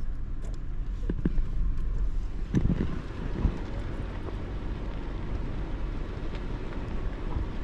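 Vehicle driving slowly with a steady low rumble, and a few short knocks and thumps between about one and three and a half seconds in.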